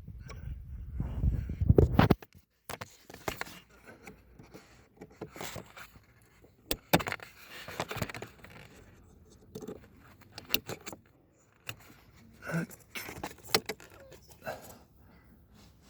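Hands and tools working on car interior trim and parts: scattered clicks, short scrapes and light metallic jingling. A loud low rumble in the first two seconds, like the microphone being bumped or handled.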